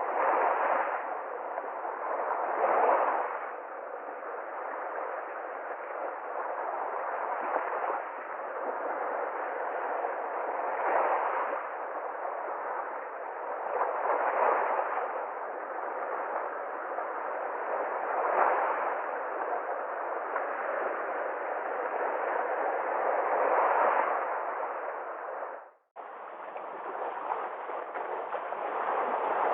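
Sea waves washing onto a shore, a continuous rush that swells with each breaking wave every few seconds. Near the end the sound cuts out for a moment and resumes with a slightly fuller surf.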